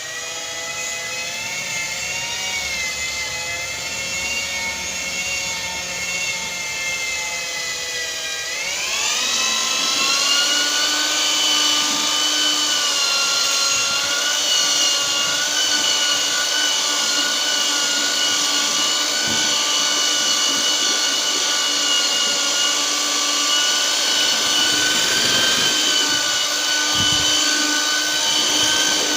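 Electric mixer's motor whining steadily as it stirs a batch of cement-sand mortar with tile adhesive, plasticiser and fibre. About nine seconds in, its pitch climbs as it speeds up, then it holds steady at the higher speed.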